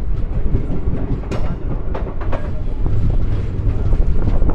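Passenger train coach running along the track: a steady, heavy low rumble with a few sharp clacks of the wheels over rail joints.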